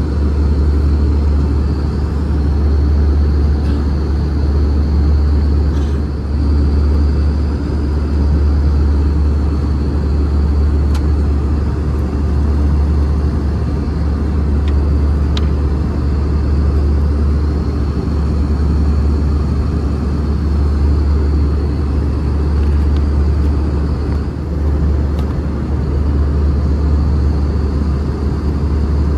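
Airbus A320 cabin noise heard from inside the passenger cabin: a steady, loud low rumble of engines and airflow with a faint high whine above it.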